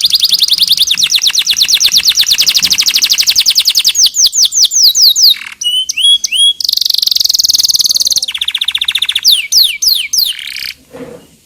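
Domestic canary singing a long, loud song: fast high trills, runs of repeated downward-sweeping notes, and a dense buzzing roll, changing phrase every second or two. The song stops about a second before the end.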